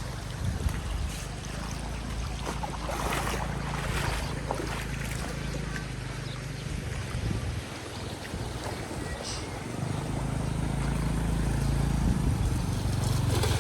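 A small engine running steadily, its hum getting louder near the end, with wind rushing on the microphone.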